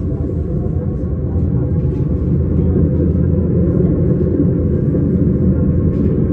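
Electric S-Bahn train running along the track, a steady low rumble that grows louder over the first few seconds and then holds.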